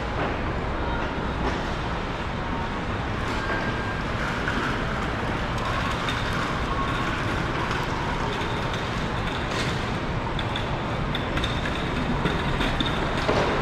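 Steady running noise of a train, with faint high tones that come and go and a slight rise in level near the end.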